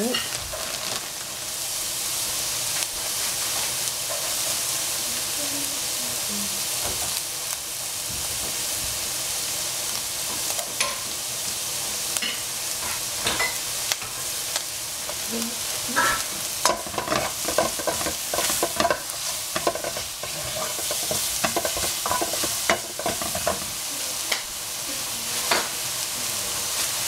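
Pork and pepper strips sizzling steadily in a hot nonstick frying pan. A wooden spatula clicks and scrapes against the pan as the food is stirred, more often in the second half.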